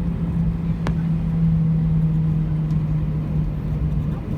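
Airbus A320 airliner cabin noise: a steady low rumble with a constant drone from the engines and air systems, and a single sharp click about a second in.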